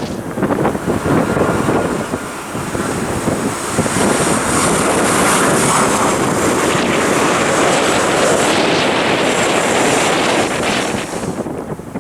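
Jet airliner passing close, its engines making a steady roar with a high whine from a few seconds in until it fades near the end. Wind buffets the microphone throughout.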